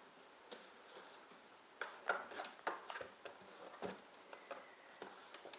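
Cardboard box crinkling and scraping in irregular bursts as a dachshund chews and paws at it.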